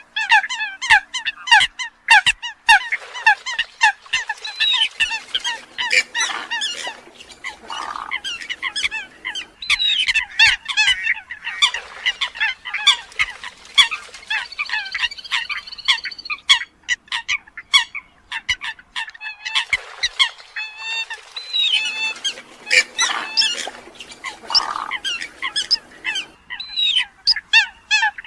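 Eurasian coots calling: a dense string of short, sharp, honking calls from several birds overlapping one another, with brief lulls, and with short clicks among them.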